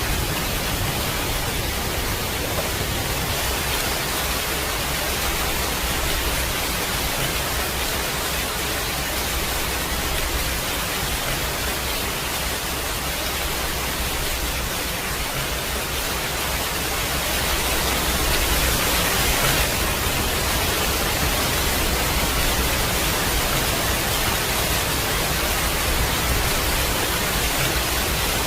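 Steady rain, a dense even hiss, growing slightly louder about two-thirds of the way in.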